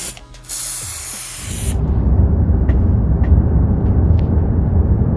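Aerosol can of silicone spray lubricant hissing in two bursts, cut off about a second and a half in. A steady low rumble with a few faint ticks follows.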